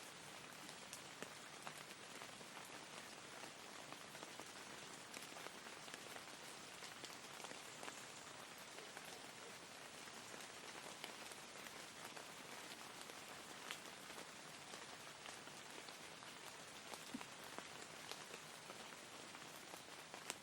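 Soft, steady rain, a constant hiss with scattered faint drop ticks.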